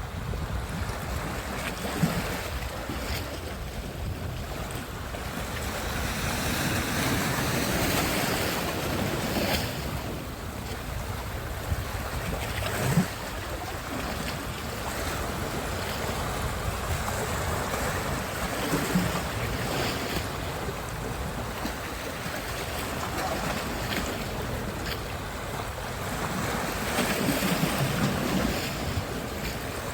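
Sea surf washing onto a beach: a steady rush of waves that swells louder every so often, with wind rumbling on the microphone and a couple of brief knocks.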